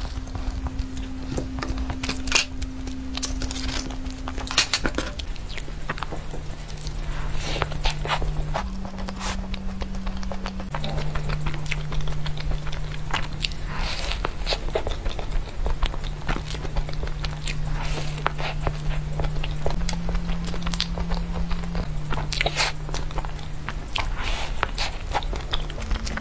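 Close-miked eating sounds: crisp bites and chewing of a chocolate-crumb-coated cake, heard as many short irregular crackles and clicks. A low held tone runs underneath and shifts pitch every few seconds.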